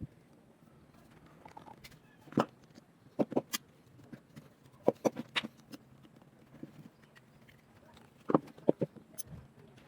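Irregular sharp taps and clicks, often two or three in quick succession, with short quiet gaps between.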